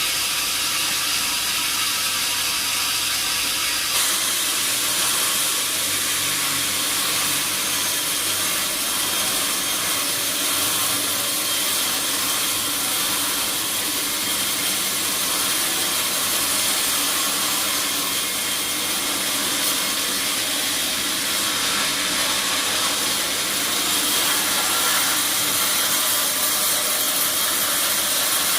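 Sawmill saw cutting through a teak log: a steady, high-pitched rushing noise of blade in wood, changing in tone about four seconds in.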